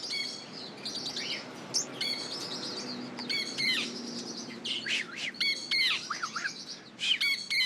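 Birds chirping: many short, high calls overlapping one another.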